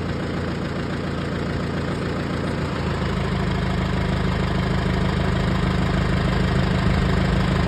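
Tractor engine idling steadily, its note growing stronger and a little louder about three seconds in as a lever, most likely the hand throttle, is slowly pushed forward.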